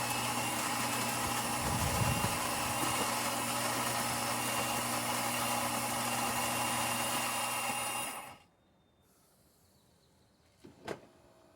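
The built-in coffee grinder of a Saeco Pico Baristo super-automatic espresso machine grinding beans for a shot: a steady motor whir with grinding noise that cuts off suddenly about eight seconds in. A single sharp click follows near the end.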